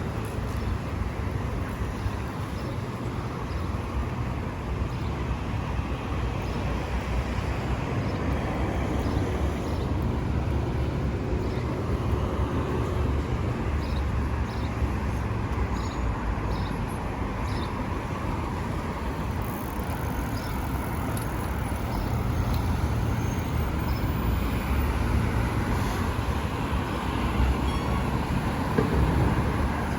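City street traffic noise: a steady rumble of passing cars, growing a little louder in the second half.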